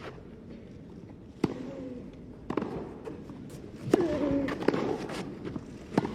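A tennis rally: rackets strike the ball about once every second or so. Several of the hits are joined by a player's short vocal grunt.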